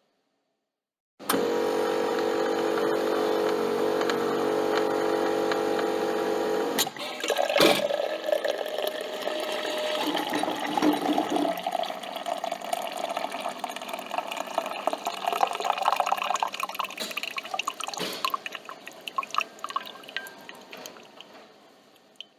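Coffee machine running with a steady buzzing hum for several seconds. It changes about a third of the way in to coffee streaming and dripping into a cup, which slowly fades away.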